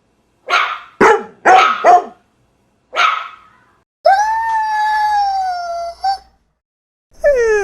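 A dog barking four times in quick succession, then once more, followed by a long howl of about two seconds, then a short call. Near the end a call falls sharply in pitch.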